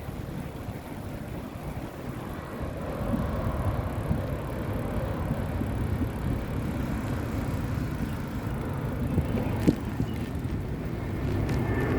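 Steady low rumble of wind and road noise while riding a bicycle, with a sharp click about ten seconds in.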